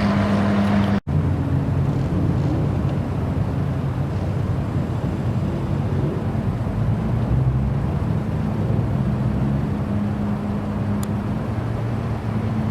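Supercar engine idling with a steady low note, cut off sharply for a moment about a second in and followed by another steady idle.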